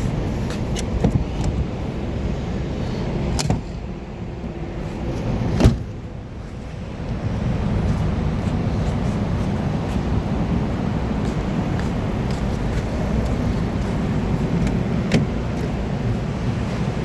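Steady low rumble of a car, with two sharp thumps about three and a half and five and a half seconds in, the second the loudest; the rumble drops for a few seconds after the first thump.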